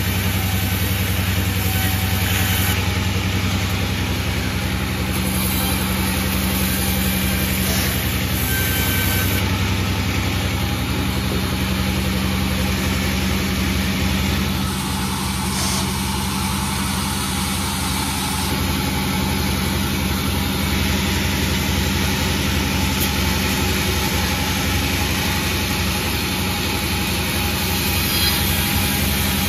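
Panda36 sawmill's engine running steadily, with a slight dip in level around the middle.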